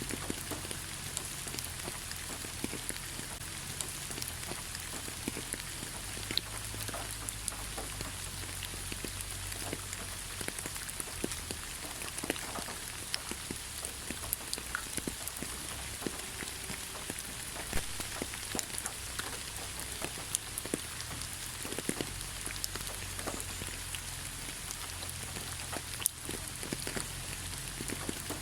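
Steady rain falling in a pine forest: a constant even hiss with many separate drops striking close by.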